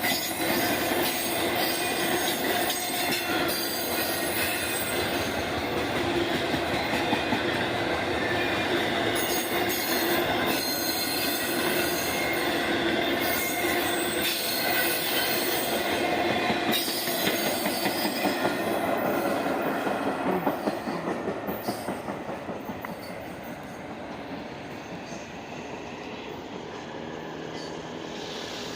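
Railroad cars rolling past, their steel wheels squealing on the rails with several high steady tones over the rumble and clatter. The noise drops off after about twenty seconds as the train moves away.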